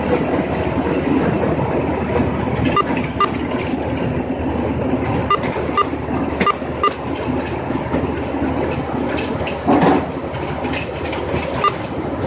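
Tractor-driven mini rice mill running at work, a steady dense mechanical rattle as it hulls paddy. Sharp clicks come through it several times, mostly in pairs, with a brief louder clatter about ten seconds in.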